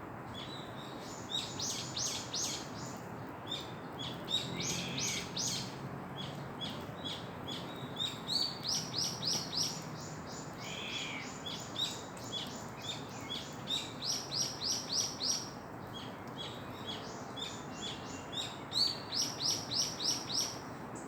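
Wild songbirds singing. Runs of five or six quick, high, sharp notes repeat every few seconds, with an occasional lower, rounder note between them.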